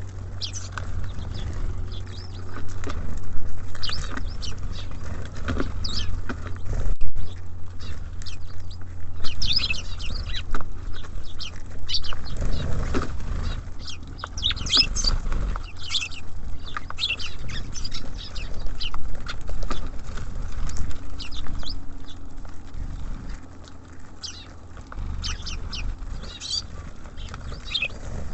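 Small songbirds at a feeder, tits and sparrows, giving many short, high chirps and calls scattered throughout, over a steady low rumble.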